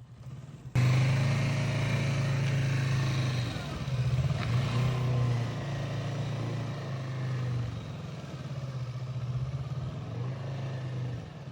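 Kawasaki motorcycle engine running steadily at low speed, cutting in suddenly about a second in and then rising and falling slightly with small throttle changes.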